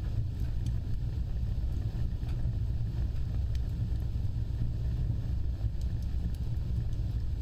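Wood fire burning with a steady low rumble and scattered faint, sharp crackles.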